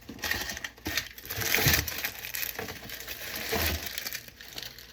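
Onions being handled in a refrigerator drawer: irregular rustling and light knocks.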